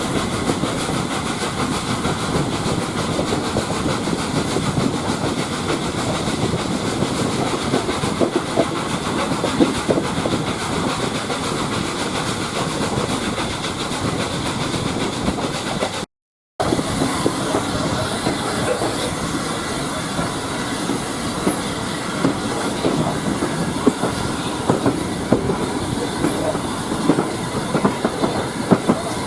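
Railway carriage running along the track, heard from on board: a steady rumble of wheels on rail with irregular clicks from the rail joints. The sound cuts out completely for a moment about sixteen seconds in.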